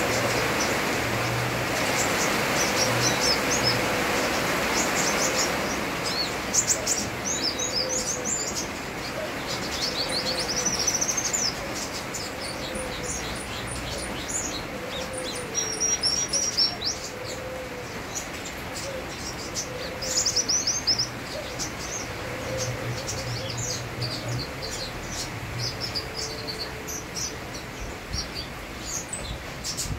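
Kolibri wulung sunbird singing actively in repeated bursts of quick, high chirps and trills, over a steady hiss of rain that is heaviest in the first few seconds.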